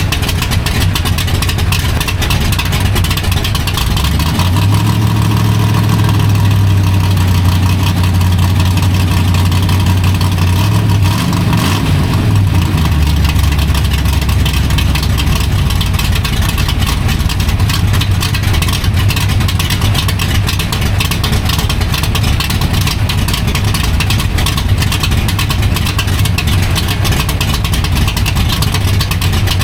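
355 small-block Chevy V8 running through fenderwell headers, its low exhaust note shifting in pitch for several seconds in the first half, then holding steady.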